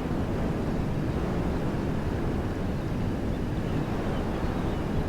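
Wind blowing through woodland trees: a steady rushing noise, heaviest in the low end.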